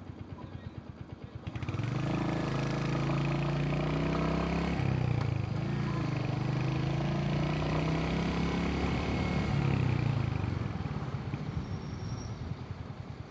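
Royal Enfield motorcycle engine idling with an even pulsing beat. About 1.5 seconds in, a louder vehicle engine rises suddenly, shifts in pitch, and fades away over the last few seconds, leaving the idle.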